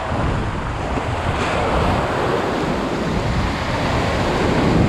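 Ocean surf breaking and washing on the beach, with wind buffeting the microphone in a steady low rumble.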